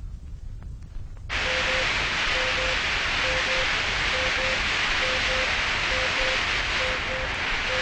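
Electronic-synthesizer simulation of tinnitus: after a short quiet gap with a few faint clicks, a loud steady hiss starts about a second in, with pairs of short low beeps repeating about once a second.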